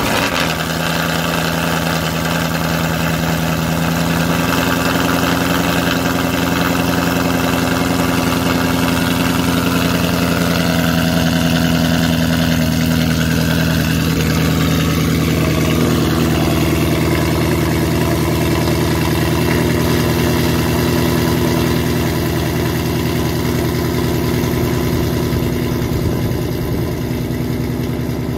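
Supercharged 2018 Ford Mustang GT 5.0 V8 running at a loud cold-start fast idle through Corsa longtube catless headers and a Corsa Active Extreme exhaust, just after firing up. It holds steady, with its pitch shifting a little about halfway through as the idle settles.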